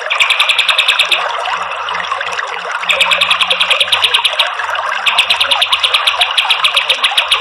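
Kapas tembak bird singing its rapid rattling trills, bursts of about a dozen high notes a second, each lasting a second or so, three times. Underneath runs a steady rush of flowing water.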